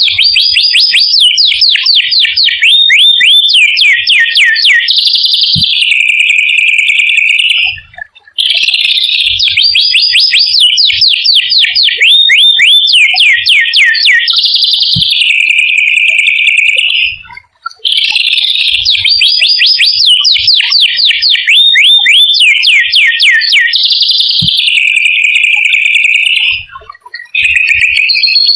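A small songbird's rolling song, looped as a masteran training recording. Each phrase is a run of fast chatter, then a rapid roll of sweeping notes, then a lower buzzy note; the phrase is heard three times, with brief breaks between.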